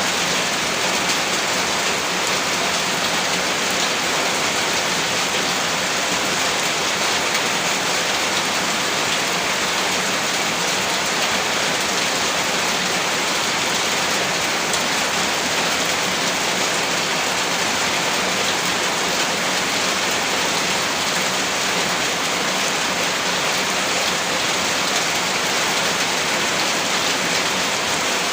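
Heavy rain falling steadily on a roof: a dense, even hiss of drops that does not change.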